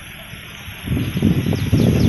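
Rural outdoor ambience: a steady high whine and a run of short falling chirps over a quiet background. About a second in, a loud, rough low rumble sets in and grows.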